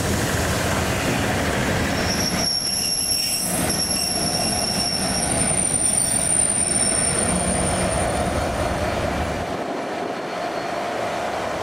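Rail head treatment train hauled by Class 69 diesel locomotives rolling past, with a steady rumble and high-pitched wheel squeal from about two seconds in until about seven seconds. The deep rumble falls away near the end.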